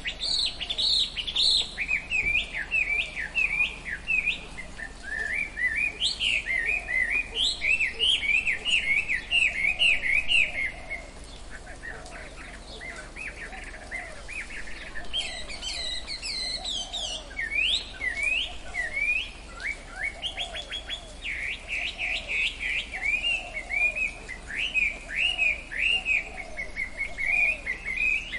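Tropical forest birds chirping and singing in quick runs of short, high notes, with fainter, lower calls repeating underneath. The chirping drops away for a few seconds about halfway through, then resumes.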